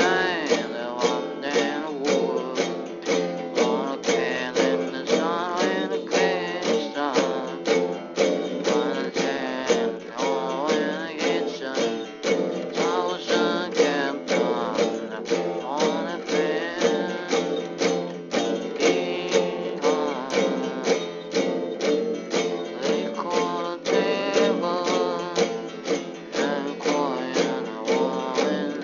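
Music: a strummed, guitar-like plucked string instrument playing a steady rhythm of several strokes a second, with a melody over it.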